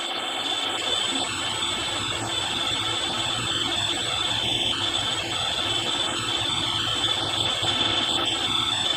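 Milling machine running with a 6 mm end mill cutting a slot: a steady machine noise with a constant high whine throughout.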